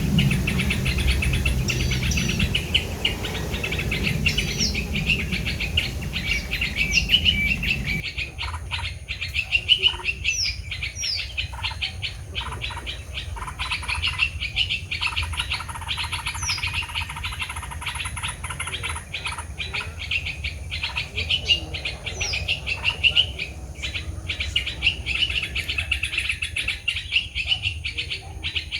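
Small birds chirping and calling in a dense, rapid stream of high notes with short downward-sweeping whistles. A low rumble lies under the first eight seconds and stops abruptly.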